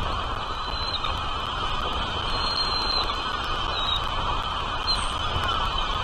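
Steady outdoor background noise with a few brief, faint, high-pitched bird chirps scattered through it.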